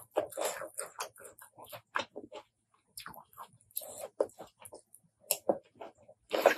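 Close-miked chewing of spicy apple snail salad: wet mouth sounds in quick, irregular clicks, with a few louder smacks.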